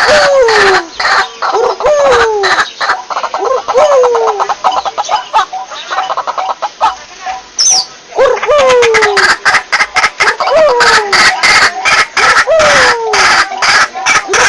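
White-breasted waterhen calling: loud harsh notes, each falling in pitch, repeated about once a second over a dense rattle of rapid clicking notes. The falling calls stop for about three seconds partway through, leaving a quickening run of clicks and one brief high whistle, then start again.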